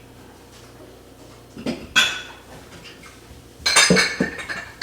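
Dishes and cutlery clinking and clattering: one sharp knock about two seconds in, and a quick run of clatters near the end.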